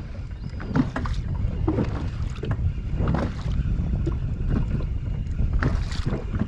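Wind buffeting the microphone over water sounds around a small boat, a dense low rumble throughout, with scattered short knocks about once a second.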